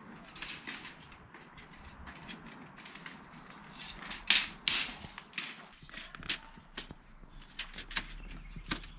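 Irregular crunching and clicking handling noises, loudest in two strokes close together a little after four seconds in.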